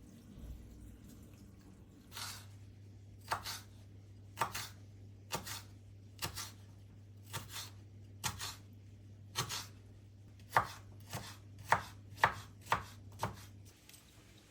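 Knife chopping food on a cutting board: about fourteen cuts, roughly one a second at first, then quickening to about two a second near the end, over a low steady hum.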